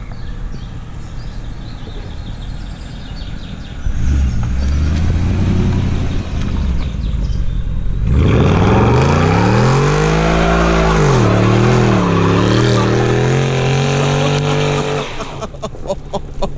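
A pit bike's small single-cylinder engine is idling, then revs up sharply about halfway through, drops back, and is held at a steady higher speed before it fades near the end.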